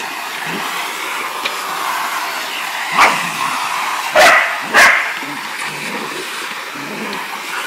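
Vacuum cleaner running steadily while a sharpei-cross cattle dog barks at it three times: once about three seconds in, then twice more about a second later.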